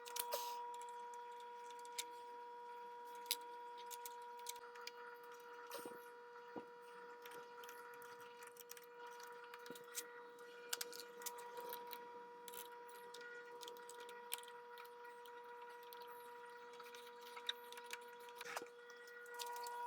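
Scattered light clicks and taps, irregularly spaced, of small metal sewing-machine parts and tools being handled during reassembly, over a steady faint high hum.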